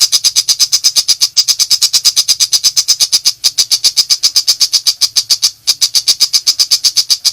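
Pentet macan shrike in full rapid song: a fast, even chatter of sharp, high notes at about ten a second, broken by brief pauses a few times.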